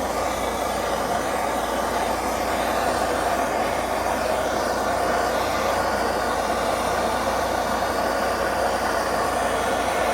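Steady rushing roar of a heating tool played over the engine block to warm it before priming.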